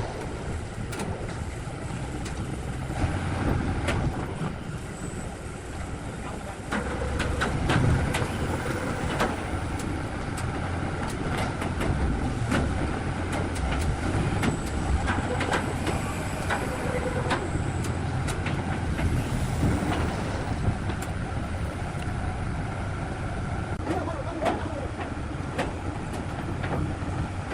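A heavy engine running steadily, with scattered knocks and clanks over it.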